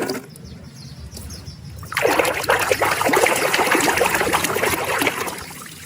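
Water running and splashing as a muddy toy is washed. It starts suddenly about two seconds in and fades near the end.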